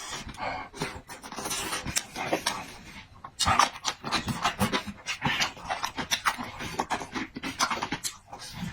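A person eating: chewing and smacking a mouthful of food, many quick irregular mouth clicks and wet sounds.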